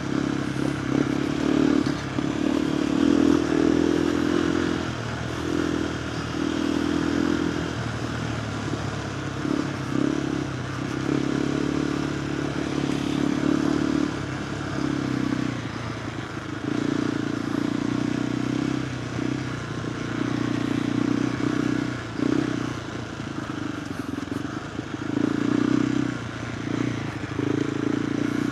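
KTM 390 Adventure R's single-cylinder engine through a Norifumi Whoops slip-on exhaust, ridden off-road. The engine note swells and drops every second or two as the throttle is opened and rolled off over rough, rocky ground.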